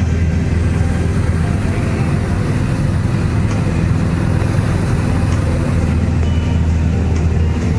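Small plane's piston engine and propeller droning steadily in cruise, heard from inside the cockpit.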